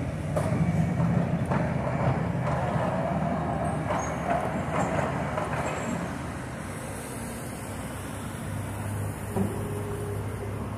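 Low, steady rumble of heavy road traffic, louder in the first half, then easing off.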